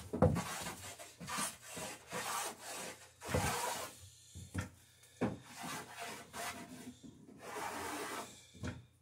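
A hand plane cutting along the edge of a wooden boat rail, with a series of uneven, rasping strokes, each under a second long, as the bevel and a small chamfer are planed in.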